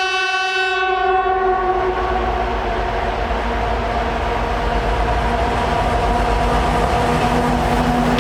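2TE10M diesel locomotive sounding its horn, which fades out about two seconds in, over the steady low rumble of its engines and the passing train.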